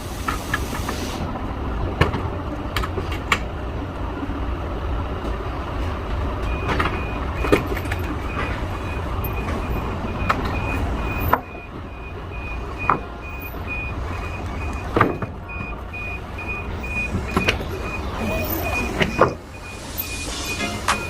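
Forklift engine running with scattered clanks of scrap metal. From about six seconds in, a reversing alarm beeps steadily at an even pace.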